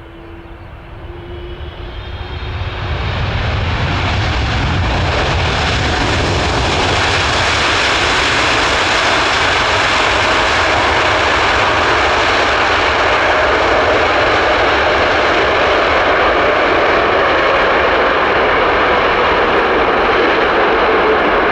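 Jet engine noise of a landing Boeing 777-300ER, from its GE90 turbofans. It swells over the first few seconds, then holds loud and steady.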